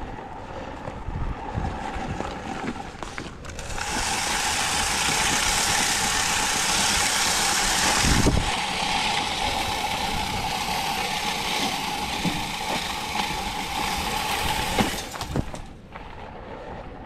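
Salt spreader broadcasting rock salt: a dense granular hiss starts about three seconds in and cuts off near the end, over a steady running hum, with one low thump midway.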